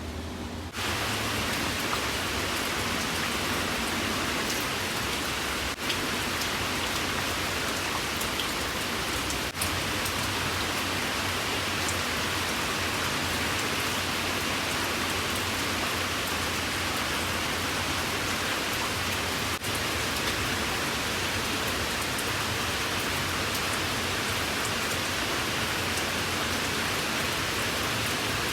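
Steady, even rain hiss, growing suddenly louder about a second in and then holding steady.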